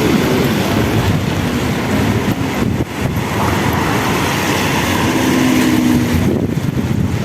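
Loud, continuous city street noise of traffic going by, with a short low hum a little past the middle.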